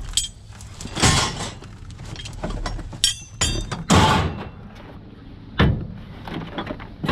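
Objects being handled and rummaged through: several separate knocks and rustles, with a short high metallic ring about three seconds in.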